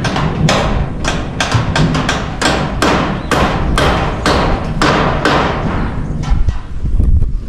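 Hammer blows on corrugated iron roofing sheets, about two sharp strikes a second, thinning out after about five seconds.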